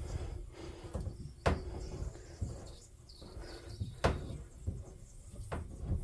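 Scattered knocks and clunks from handling the washing machine's water tap and hose, the sharpest about a second and a half in and four seconds in. Under them is a faint steady hiss of water feeding into the leaking machine.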